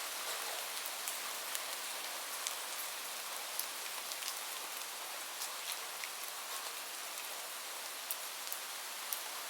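Steady rain falling, with scattered sharp pops and crackles from a wood fire in a fireplace, a few each second.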